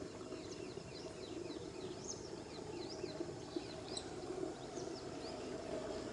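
Small birds chirping: many short, high, down-slurred notes, several a second and overlapping, over a steady low hum in the background.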